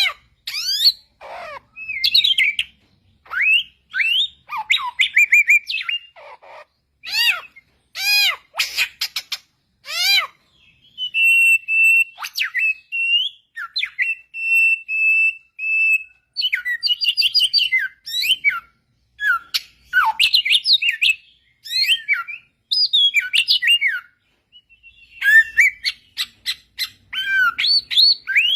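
A samyong songbird singing in bursts of clear, quick whistled notes that sweep up and down. In the middle it holds a run of steady, level whistles before going back to fast varied phrases.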